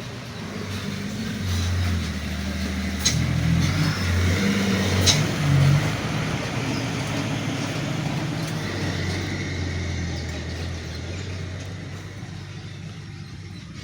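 Engine of a passing motor vehicle, growing louder to a peak about halfway through and then slowly fading, with two sharp clicks near the peak.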